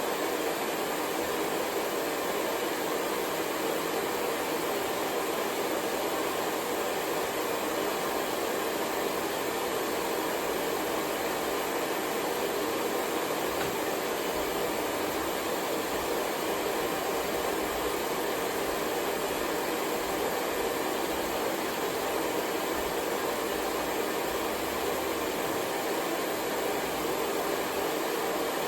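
Hair dryer blowing steadily, a constant even whoosh with no change in speed.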